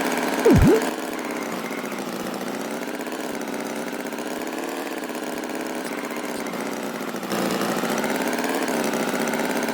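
Steady engine hum, its pitch wavering slightly. A quick swooping tone dips down and back up about half a second in, and the hum grows louder a little after seven seconds in.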